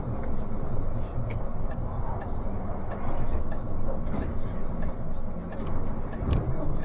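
Low steady rumble of a moving car heard from inside, with a regular ticking about twice a second.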